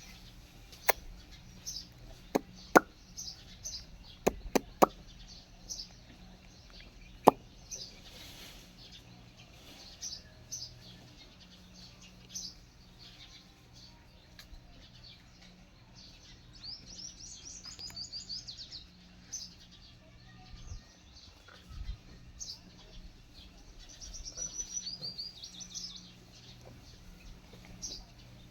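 Small birds chirping and twittering, with two stretches of rapid trilling, one in the middle and one near the end. Several sharp clicks or knocks in the first seven seconds are the loudest sounds.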